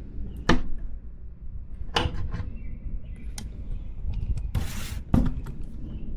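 Channel-lock pliers gripping and working a bent window frame: a handful of sharp clanks and knocks spaced a second or so apart, with a brief scraping rasp just before the loudest knock, about five seconds in.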